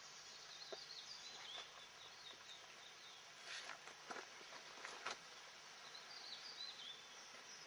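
Faint outdoor ambience with small birds chirping in quick high chirps that slide in pitch, in clusters near the start and again about six seconds in, and a few soft knocks in the middle.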